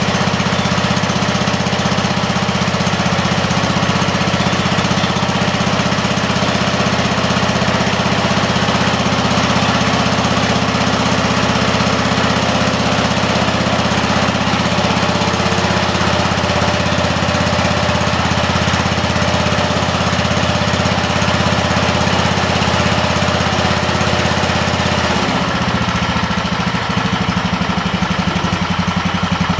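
Wheel Horse C-100 garden tractor's single-cylinder Kohler engine running steadily while the tractor is driven in first low gear. Its note drops lower about 25 seconds in.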